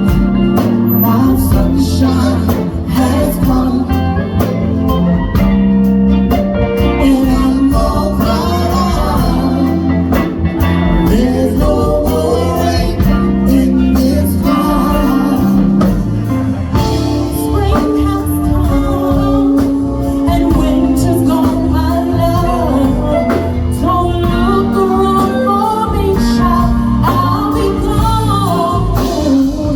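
Live band playing a blues-soul song, with guitar over a steady bass and chord backing and a voice singing a melody line over it.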